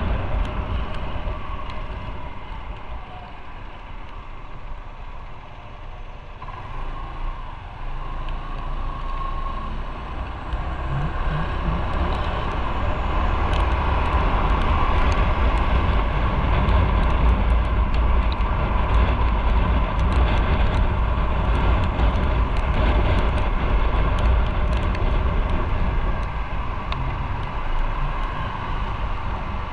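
Motorcycle on the move: engine and wind rushing over the camera microphone with a heavy low rumble. It drops quieter for several seconds, then rises and holds steady and loud.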